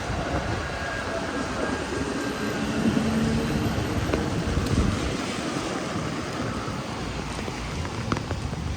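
A city tram running past on its rails, fading toward the end, over the steady hiss of heavy rain.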